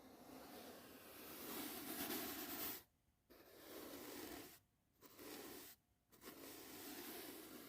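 Soft brush bristles stroked across the microphone in four long strokes, with short silent pauses between them.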